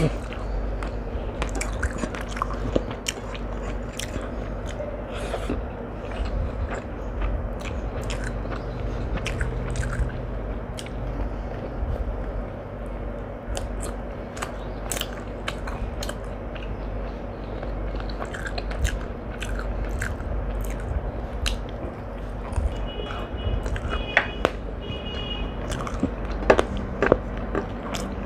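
A person eating close to the microphone: chewing and biting food, with irregular crunches and mouth clicks.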